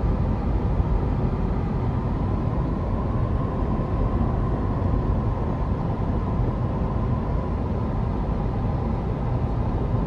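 Steady road and engine noise of a car cruising on a highway, heard from inside the cabin; a constant low rumble with no changes.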